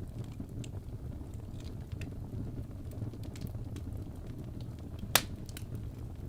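Fireplace fire crackling: a steady low rumble with scattered small crackles and one sharper, louder pop about five seconds in.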